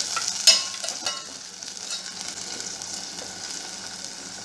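Vegetables and sauce sizzling in a stainless steel pot while being stirred with a perforated steel spoon, mixing in the sauces. The spoon clinks sharply against the pot about half a second in and again about a second in.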